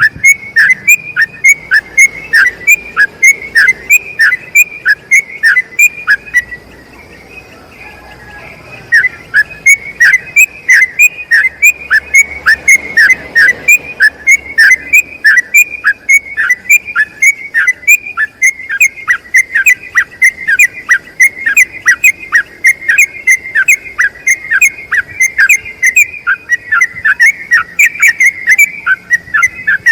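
Yellow-vented bulbul singing a long run of rapid, repeated whistled notes, each dropping in pitch, about two to three a second. The song breaks off for about two seconds a quarter of the way in, then runs on.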